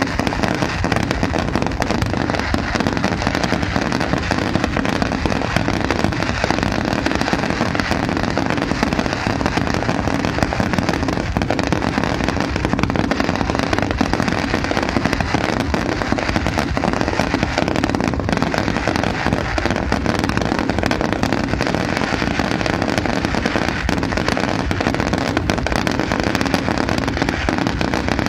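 Fireworks going off in a continuous barrage: dense overlapping bangs and crackling with no let-up.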